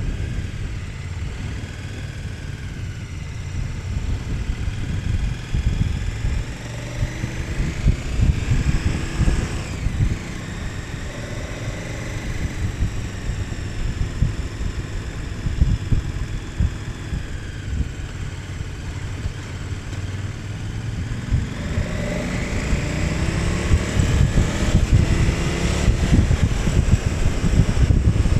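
KTM 1290 Super Adventure S's V-twin engine running under way, its pitch rising on the throttle at about eight seconds and again through the last third, dropping back between.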